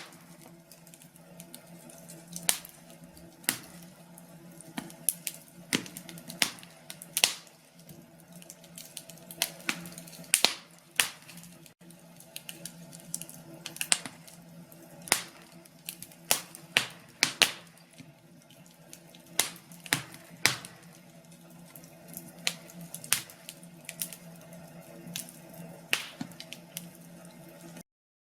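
Wood fire crackling in a fireplace: sharp, irregular pops and snaps over a faint steady hum, cutting off abruptly near the end.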